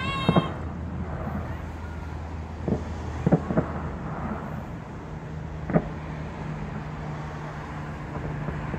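New Year's fireworks bursting: about five scattered sharp bangs in the first six seconds, over a steady low hum.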